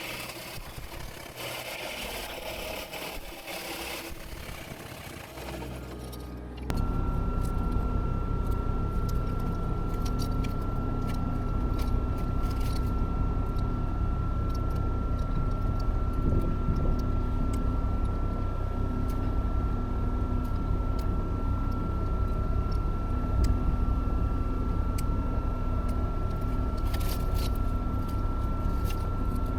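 Rough scraping and rustling for about the first six seconds, then an abrupt change to a heavy machine's engine running steadily: a low rumble with a constant high whine over it.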